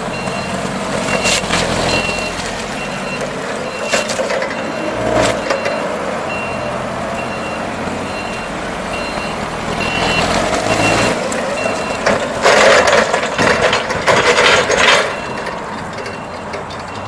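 Cat 5,000 lb cushion-tire forklift with a Nissan K21 LP-gas engine running as it manoeuvres, its backup alarm beeping steadily at about two beeps a second. A louder rough noise swells for a couple of seconds near the end.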